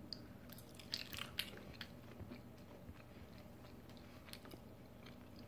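Faint chewing of cooked stinkhorn mushroom egg (Phallus impudicus): scattered soft mouth clicks, thickest in the first second or two.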